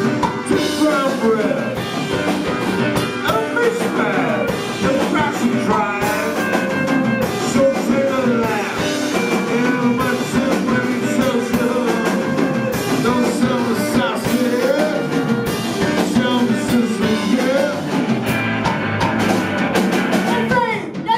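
Rock band playing live: electric guitar and drum kit, with a singing voice.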